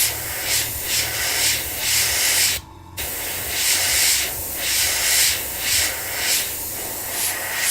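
Airbrush spraying paint, its hiss coming in short pulses about twice a second as the trigger is worked on and off, with a brief pause about two and a half seconds in. A steady low hum runs underneath.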